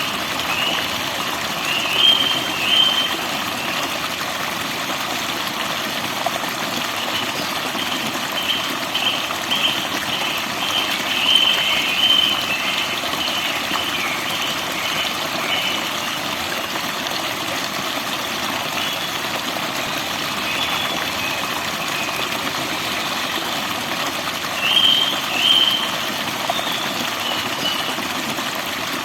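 Steady rush of running water, with birds singing short, high, chirping phrases over it: a burst about two seconds in, a longer run in the middle, and another burst near the end.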